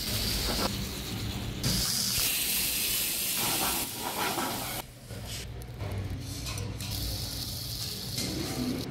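Food sizzling in hot frying pans over gas burners, a steady hiss that changes abruptly a few times as the shots cut, quieter in the second half.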